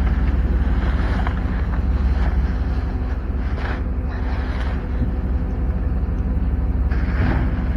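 Steady low rumble of a vehicle driving, with engine and road noise and a faint steady hum.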